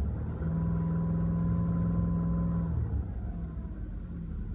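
Subaru EJ20R two-stage twin-turbo flat-four engine revved once: the pitch rises about half a second in, holds steady for about two seconds, then drops back to idle. The engine runs smoothly, with nothing audibly wrong, which the owner takes for a healthy motor.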